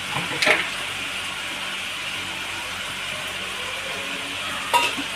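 Chicken and spices sizzling steadily in a pot as they are roasted for a curry, with two short clinks of a spoon against the pot, about half a second in and near the end.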